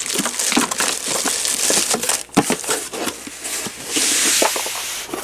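Hands handling something that rustles and crinkles, with scattered small clicks and knocks; loudest about four seconds in.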